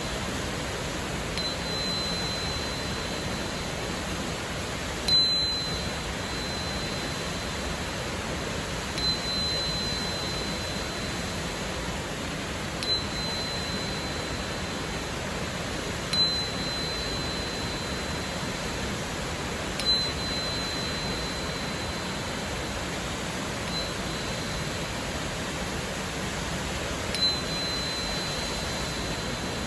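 A 4096 Hz crystal tuner struck about every three to four seconds, each tap ringing a single high, pure tone that sustains until the next strike. Under it runs the steady rush of a waterfall.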